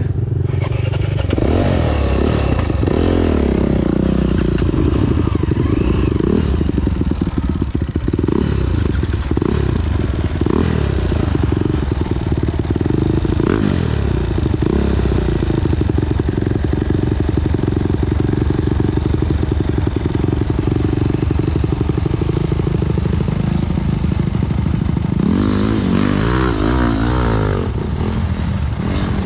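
Off-road trail motorcycle engine, revving up and down for the first ten seconds or so, then holding a fairly steady pitch, with quick rises and falls of the revs again near the end.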